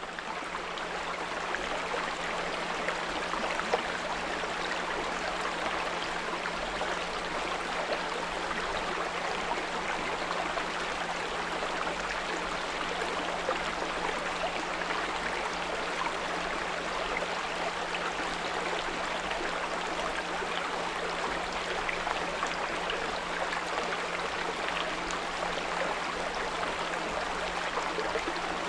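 A small brook running and trickling steadily, with a constant low 174 Hz pure tone sounding underneath it.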